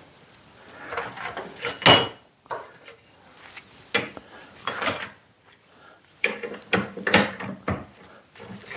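Irregular metal clinks and knocks of machine-shop tooling being handled, the loudest about two seconds in and another run of them near the end.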